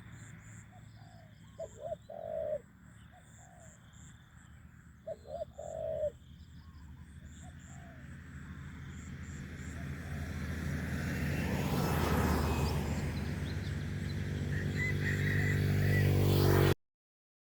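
A spotted dove cooing twice, each a short run of low notes, with faint high bird chirps behind. From about halfway through, a vehicle engine grows steadily louder until the sound cuts off suddenly near the end.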